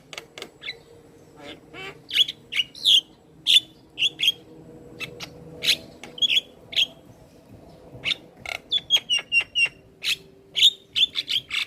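Javan myna singing energetically: a steady string of short, harsh chirps, clicks and squawks, with a quick run of repeated notes about nine seconds in.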